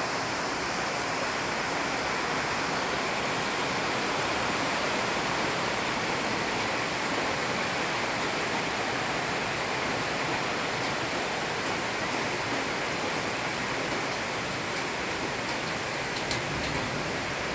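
Heavy tropical rain falling steadily on jungle foliage, an even hiss, with a few sharp ticks near the end.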